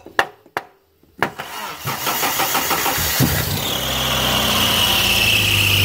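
A sticking car starter motor struck three times with a wooden block, then cranking until the engine catches about three seconds in and settles into a steady idle. Soon after it starts, a high steady squeal joins the running engine, from a drive belt that needs checking.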